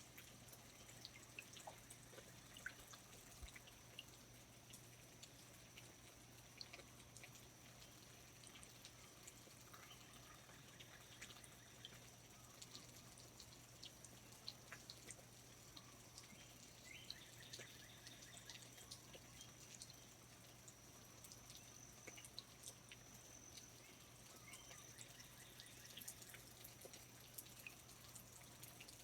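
Faint rainforest ambience: scattered water drips ticking irregularly, over a steady thin high-pitched tone and a low hum.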